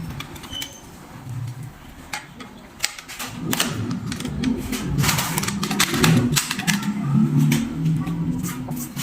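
Irregular run of sharp clicks and small taps, like tools and plastic fittings being handled during switch board wiring, coming thicker from about three and a half seconds in.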